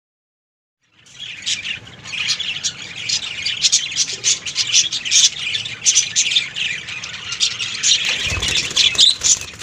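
Budgerigars chattering and calling, many quick overlapping chirps and squawks, starting about a second in.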